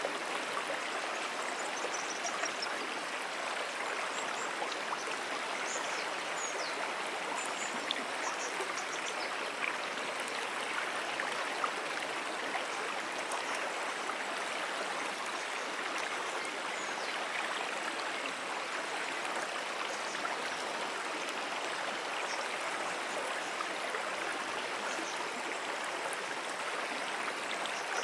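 Moonan Brook's water flowing steadily, an even, continuous rush of a running stream. A few faint high chirps sound over it, mostly in the first ten seconds.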